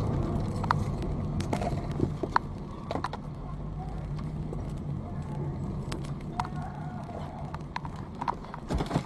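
A car engine running steadily, with scattered light clicks and knocks.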